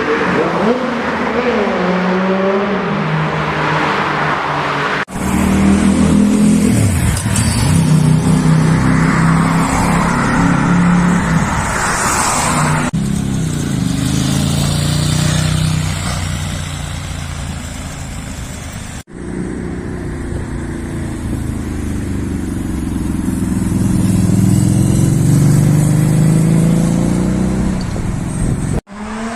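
Inline-four sportbike engines revving and accelerating hard, their pitch climbing and dropping through the gears, in a string of separate clips that cut abruptly from one to the next four times.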